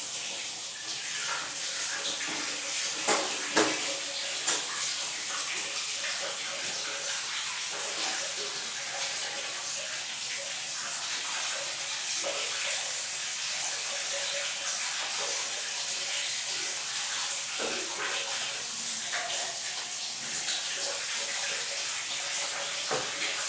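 Water running steadily from a tap in a bathroom, an even hiss, with a few sharp knocks about three to four seconds in.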